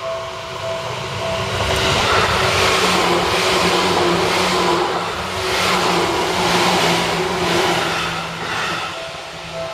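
Seibu Railway electric train passing by, the sound swelling about a second and a half in with a motor whine and a rapid clatter of wheels over the rails, then easing near the end.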